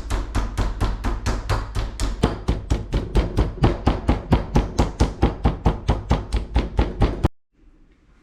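Meat mallet pounding boneless chicken breasts between sheets of plastic wrap to tenderize them: rapid, even thuds, about four or five a second, stopping abruptly about seven seconds in.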